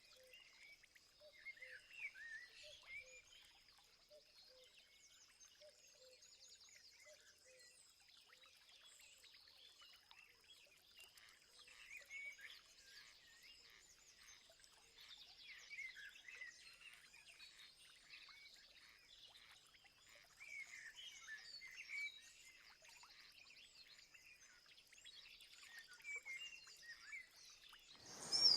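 Faint chorus of many small birds chirping and calling over one another, with a thin steady high tone running underneath. Just before the end a louder, noisier sound sets in.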